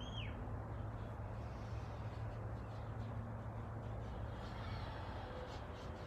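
A few faint bird calls over a steady low rumble; one short call rises and falls in pitch right at the start.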